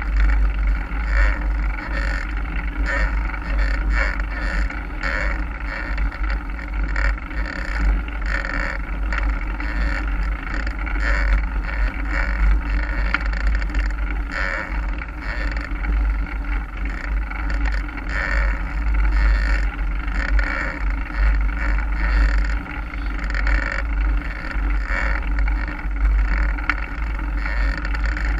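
Mountain bike being ridden on a dirt trail: steady wind rumble on the camera microphone with a constant clatter of tyres and bike parts over the rough ground.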